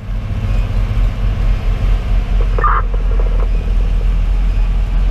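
Steady low rumble of a fire engine's Detroit Series 60 diesel and the road, heard inside the cab while under way, with one brief short sound about two and a half seconds in.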